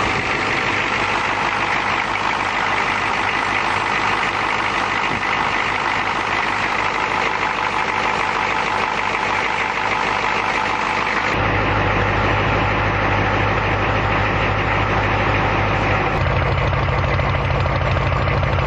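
1986 Ford 6.9L IDI V8 diesel in a 1989 F150 idling cold through near-straight-piped 4-inch dual stacks. About two-thirds of the way through, the sound turns suddenly deeper and heavier, and it deepens again near the end.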